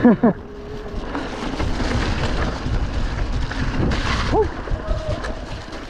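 Electric mountain bike running down a wet, muddy trail: a rush of tyre and wind noise with a deep rumble and scattered knocks and rattles from the bike over rough ground. The noise builds about a second and a half in.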